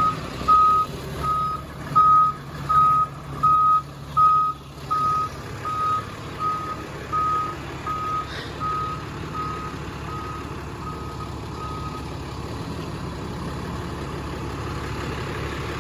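A vehicle's reversing alarm beeping at one steady pitch about once every three-quarters of a second, growing fainter and stopping about twelve seconds in, over a steady engine rumble.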